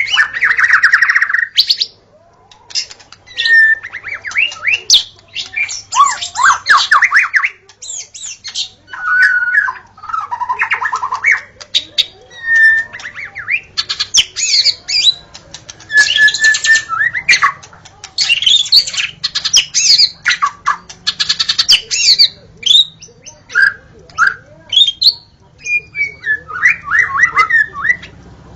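White-rumped shama (murai batu) singing: a rapid run of varied phrases, with whistled notes, fast trills and sharp clicks, in bursts separated by brief pauses.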